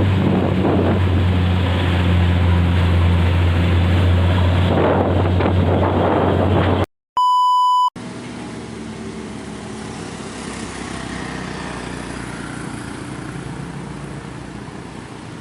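Heavy diesel bus engine running close by with a steady low drone, cut off suddenly about seven seconds in. A short electronic beep follows, then quieter road traffic and wind noise.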